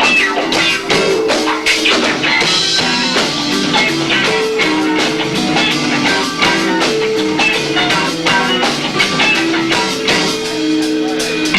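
Live rock band playing at full volume: distorted guitar, bass and two drum kits pounding steadily, heard lo-fi through a camcorder's built-in microphone.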